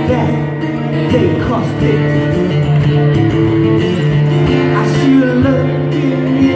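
Acoustic guitar strummed in a song, with a singing voice at times.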